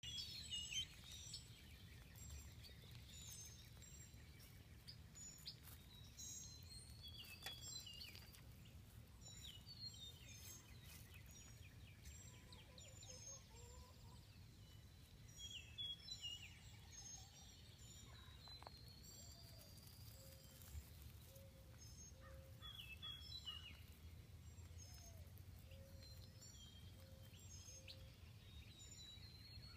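Faint bird peeps and chirps, with three long rising whistles about ten seconds apart, over a low steady rumble.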